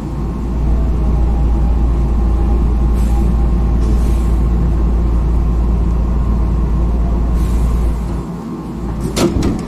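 Running sound of a Hankyu 5300-series electric train (set 5321F, TDK-8550-A traction motors): a steady heavy rumble with faint steady whines. The rumble drops off about eight seconds in, and a few sharp clicks follow about a second later.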